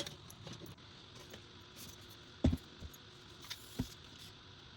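Drive bay being fitted back into a PC case: a few short knocks and clicks of parts being handled, the loudest about two and a half seconds in.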